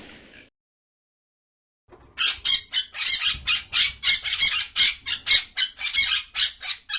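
A bird squawking harshly over and over, about four calls a second, starting about two seconds in after a short silence.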